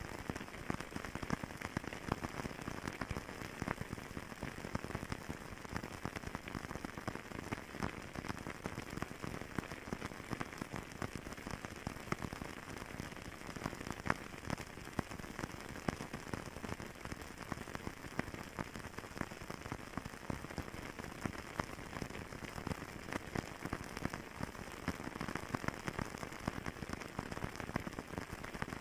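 Fireplace fire crackling: a dense, steady run of small pops and snaps over a soft hiss.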